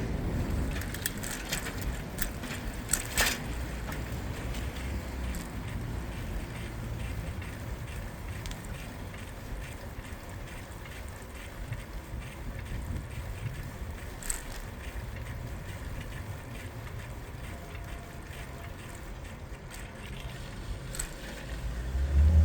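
City traffic heard from a moving bicycle: a steady low rumble of traffic and road noise, with a few sharp clicks and rattles in the first few seconds and one more about two-thirds through. A louder vehicle comes close right at the end.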